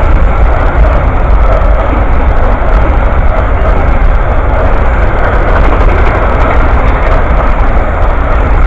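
Amtrak passenger train passing close by, a steady loud rumble and rush of its cars and wheels on the rails with no let-up.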